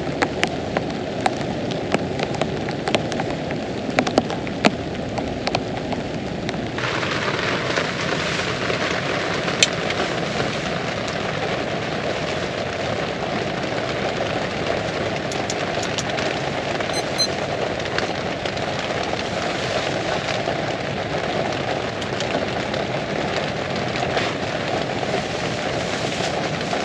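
Heavy rain falling steadily, with sharp individual drops striking close by during the first five seconds or so. About seven seconds in, the rain noise suddenly grows fuller and brighter.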